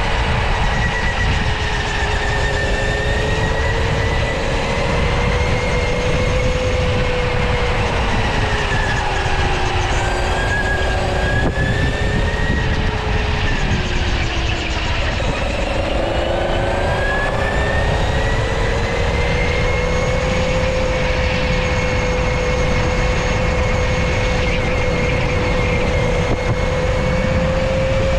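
Electric go-kart motor whining as the kart is driven. The whine's pitch sinks as the kart slows about halfway through, then rises again and holds as it speeds back up, over a steady low rumble.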